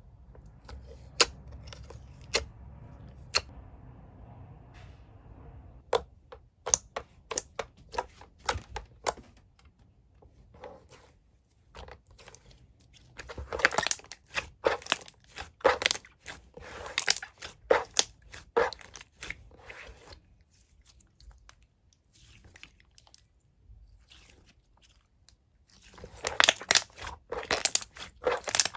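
Slime being squeezed and worked by hand, giving sharp clicks and pops. The clicks come singly at first, then in dense crackling runs from about halfway through and again near the end.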